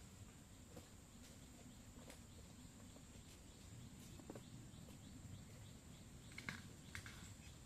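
Quiet outdoor ambience with a faint steady high insect drone, and a few light clicks or rustles of handling near the end.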